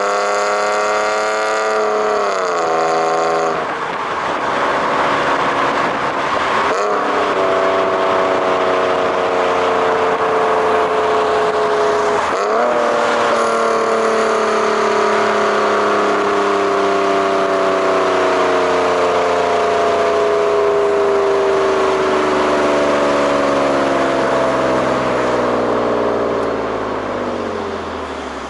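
BMW E46 engine and exhaust under way. The engine note climbs, drops sharply a few seconds in, and jumps twice as the revs change. It then sinks slowly as the revs fall, and fades near the end.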